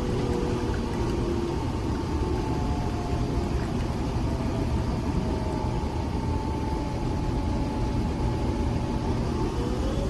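Nespresso Vertuo Next coffee machine running through a brew: a steady motor whir with pump noise, and faint tones that drift slowly in pitch.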